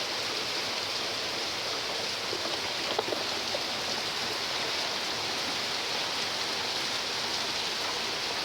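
Steady rain falling in a thunder shower, an even hiss with no break.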